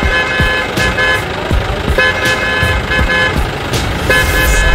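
A vehicle horn honking in three bouts, each made of a few short blasts, over low thuds.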